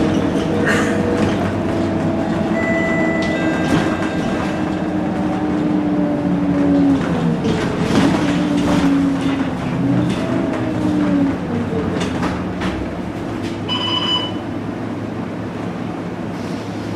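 Scania K230UB city bus running, its engine and drivetrain whine falling and rising in pitch as it slows and speeds up. A brief pitched tone sounds about fourteen seconds in.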